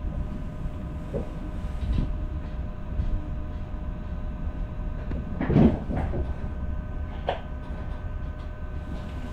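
Diesel railcar running, heard from inside the car: a steady low rumble with a constant hum, broken by scattered knocks and clunks. The loudest clunk comes about five and a half seconds in.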